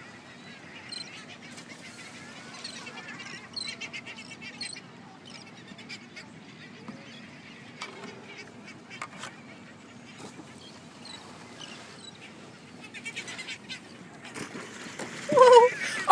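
Sea lions barking: faint scattered calls, then a loud run of barks near the end.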